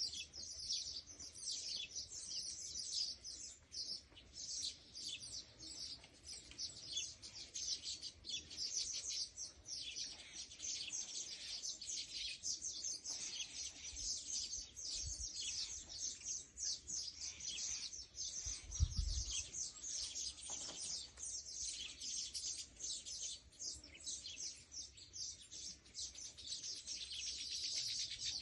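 Many small birds chirping and twittering in a dense, continuous chorus of rapid high-pitched notes, with a brief low thump about two-thirds of the way through.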